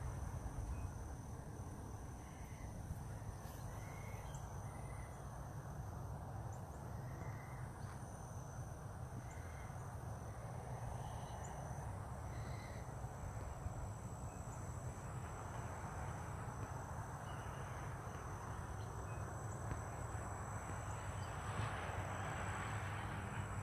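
Outdoor nature ambience: a steady high-pitched insect drone, scattered short bird calls every second or two, and a low rumble of wind on the microphone.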